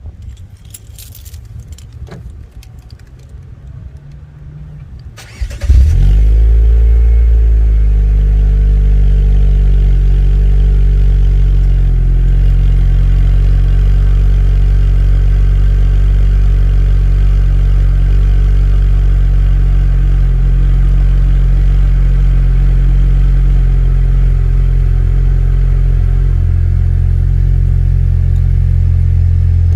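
A Chevy Cruze's 1.4-litre turbocharged four-cylinder, exhausting through MagnaFlow Street Series mufflers with the stock mufflers and second catalytic converter deleted, starts about five and a half seconds in. It flares briefly, then settles into a steady, deep idle. Before the start there are a few light clicks.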